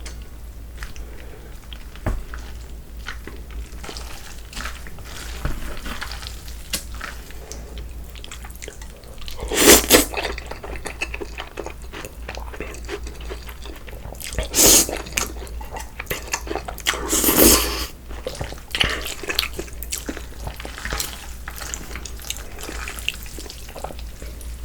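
Close-miked eating of cold noodles in broth: wet chewing with many small clicks and drips. Three louder noisy swells of about a second each come near ten, fifteen and seventeen seconds in.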